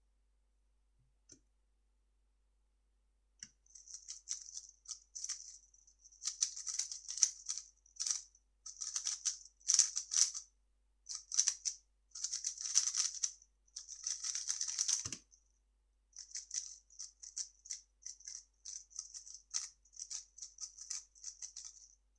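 3x3 speed cube being turned fast: runs of quick plastic clicking and rattling in bursts with short pauses, starting a few seconds in after near silence. One dull thump comes about two-thirds of the way through.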